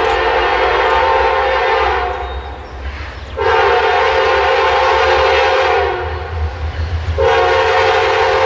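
Diesel locomotive air horn sounding long, steady blasts, broken twice by short pauses, over the low rumble of the locomotive.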